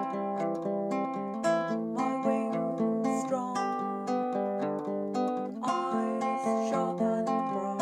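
Baritone ukulele playing a fingerpicked melody over ringing chords, with a few quick strums.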